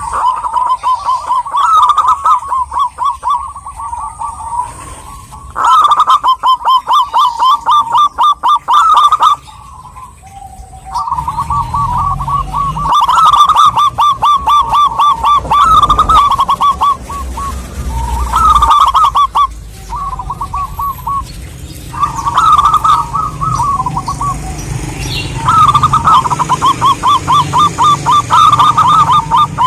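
Zebra dove (perkutut) singing: bouts of rapid staccato cooing notes, each run lasting a few seconds, repeated with short pauses between them. A low background rumble comes in partway through.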